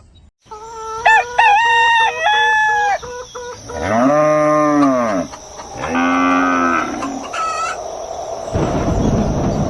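Farm animal calls: a rooster crowing, then a cow mooing twice in long arched calls, and a short high call after them. A low rushing noise starts near the end.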